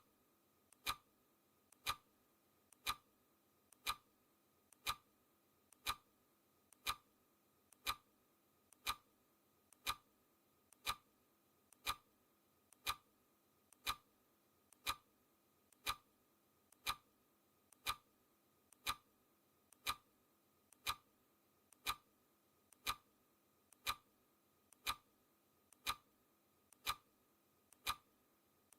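Clock ticking steadily once a second, each tick a sharp click with a fainter click just before it.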